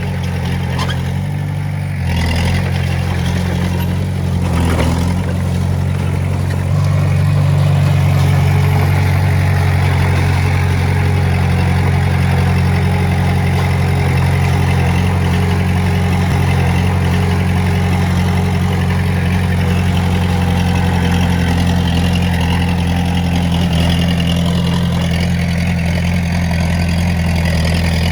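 Heavy-equipment diesel engine running steadily, getting louder about two seconds in and again about seven seconds in, then holding at a steady level.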